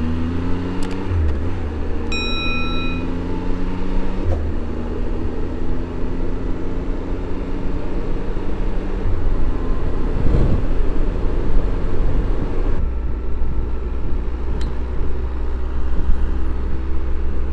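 Motorcycle engine pulling away and rising in pitch as it accelerates through the gears, with a short beep about two seconds in. From about two-thirds of the way through, the engine runs at a steady cruise.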